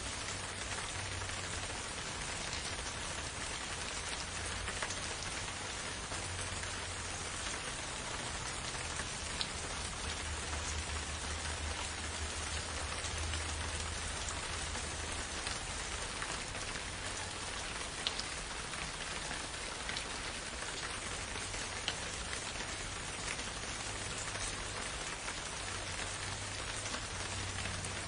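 Steady rain falling in a forest, an even hiss with scattered drop ticks standing out now and then, over a low constant rumble.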